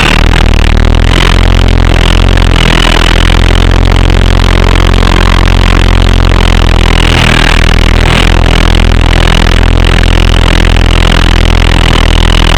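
Double Horse 9118 RC helicopter's small electric motors and rotors running at a steady, loud whine with a low hum underneath.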